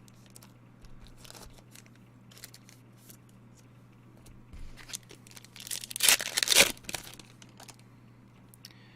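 A trading-card pack wrapper torn open with a loud crinkling rip about six seconds in, after several seconds of soft ticks from cards being handled.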